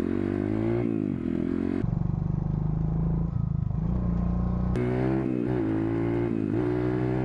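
The single-cylinder engine of a 140cc pit bike running under way, its revs climbing and then dropping back several times as it shifts up through the gears, with a steadier stretch in the middle.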